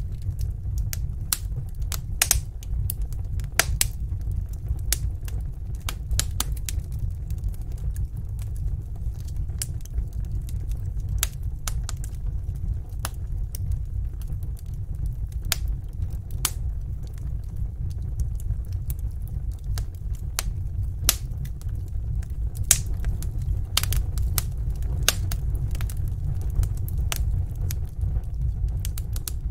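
Wood fire burning in a fireplace: sharp crackles and pops come at irregular intervals, some much louder than others, over a steady low rumble of the flames.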